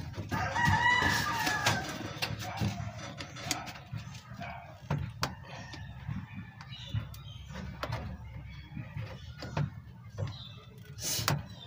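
A rooster crows once, starting about half a second in, over scattered light clicks and taps of hand tools. A sharp click comes near the end.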